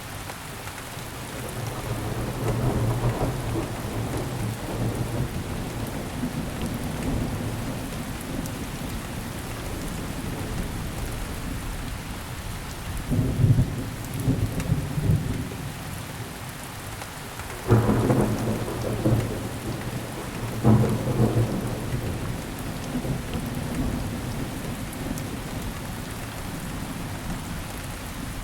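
Steady rain falling, with rolls of thunder rumbling over it several times, two of them breaking sharply near the middle and later on.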